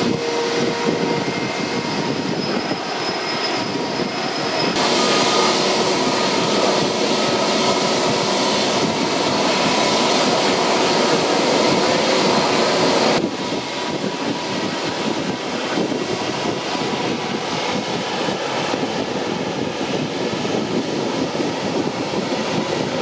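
Jet airliner engines running, a steady rushing noise with a thin turbine whine. The sound jumps abruptly twice, about five and thirteen seconds in, the middle stretch louder.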